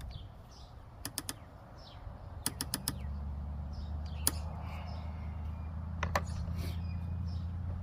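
Sharp metal clicks from tools and parts being handled, in quick runs of three and four, then single clicks. A steady low hum sets in about three seconds in, with faint bird chirps.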